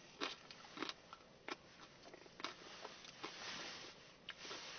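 Faint crunching of someone eating an ice-cream Blizzard with hard candy cane chunks in it: several sharp crunches and clicks about a second apart.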